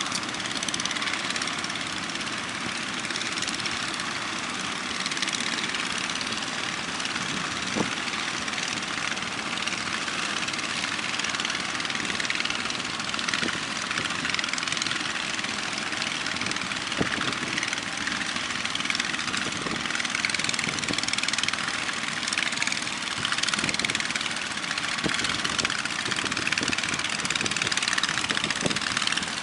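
Steady rush of sea surf and wind, with a boat engine running underneath.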